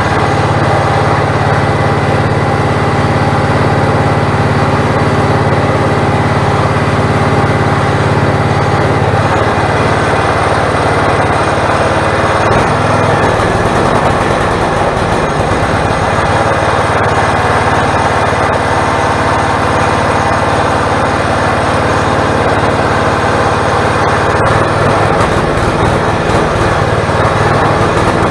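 Small gasoline engine on a log splitter running loudly, its steady note shifting and unsettling about nine seconds in and settling again near the end.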